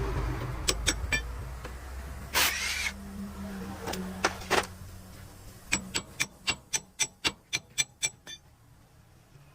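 A vehicle engine rumbles and fades away over the first few seconds, with a short burst of hiss along the way. Then comes a quick, even run of about a dozen sharp clicks, roughly four a second.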